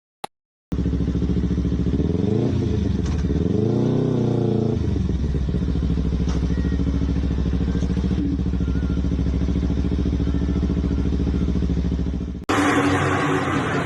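A motor vehicle engine running steadily, revved up and back down twice about two to four seconds in. Near the end it cuts abruptly to a louder, rougher engine sound.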